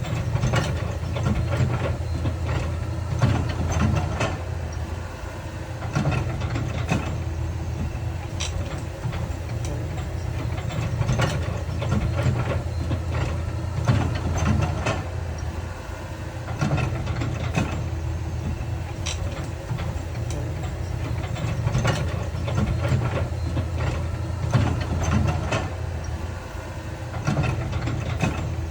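Heavy diesel earthmoving machinery working, its engine running steadily with frequent sharp knocks and clanks.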